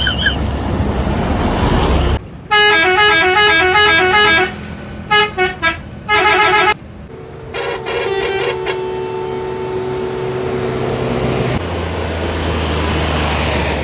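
Big vehicles' musical multi-note horns playing quick stepped phrases twice, then one long steady horn note, over diesel engine and traffic noise.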